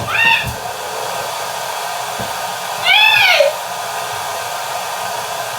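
Hand-held hair dryer running steadily. Two short, high-pitched cries that rise and fall cut through it, one at the very start and one about three seconds in.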